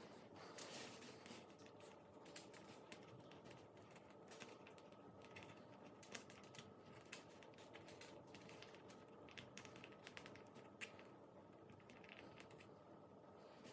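Faint, irregular small clicks and crackles of slime being pressed and worked by hand.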